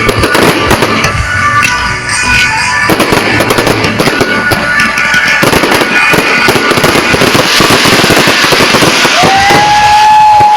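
Pop music plays over dense, loud crackling and popping. Near the end a steady whistling tone holds for about two seconds, then dips away.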